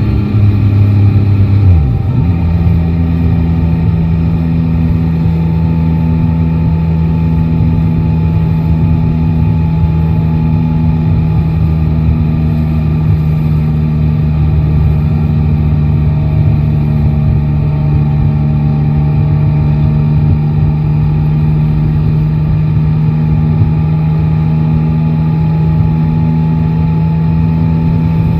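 Yamaha Tracer 9 GT's three-cylinder engine heard from the rider's seat, over wind and road noise. The engine note drops about two seconds in, then holds a steady pitch while cruising.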